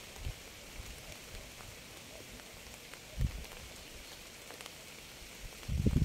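Steady rain falling on a surface: an even hiss with scattered drop ticks and a dull low thump about three seconds in. Near the end a much louder low rumble sets in.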